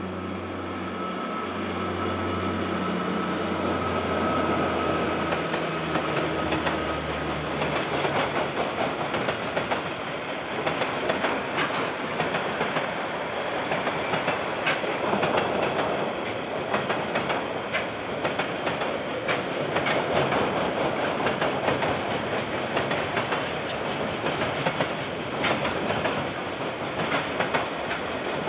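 A diesel-hauled KiwiRail container freight train passes, picked up by a security camera's microphone. For the first seven or eight seconds a steady, low locomotive engine sound dominates. Then the container wagons roll by with a continuous rumble and a rapid, uneven clickety-clack of wheels over rail joints.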